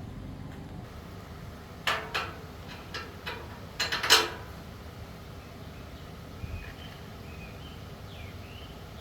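A handful of sharp knocks and clicks bunched together about two to four seconds in, the loudest near the end of the cluster, over a low steady background hum.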